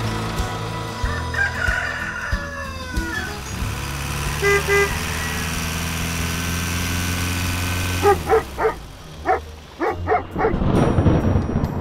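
Dubbed sound effects: a vehicle engine runs steadily, with two short beeps about four and a half seconds in. The engine stops about eight seconds in, followed by a run of short pitched calls, and rain and thunder noise build up near the end.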